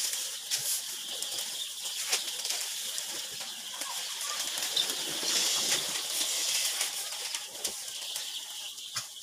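A flock of laying hens in a poultry shed, rustling and flapping their wings with scattered clicks and a few faint chirps over a steady high hiss.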